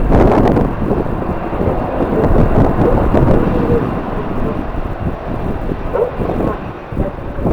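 Strong wind buffeting the microphone: a loud, gusty rumble that swells and eases.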